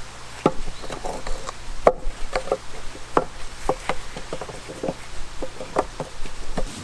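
Irregular sharp woody cracks and knocks, about three a second, over a steady low hum.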